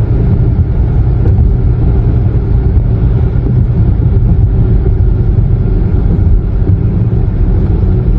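Steady, loud low rumble of noise with no distinct events.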